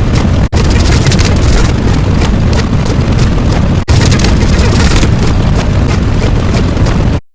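Loud, steady rumbling noise, heaviest in the low end, in three stretches split by brief cuts about half a second and about four seconds in. It cuts off abruptly just before the end.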